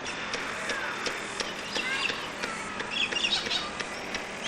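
Small birds chirping in short bursts, twice, with scattered faint clicks in between.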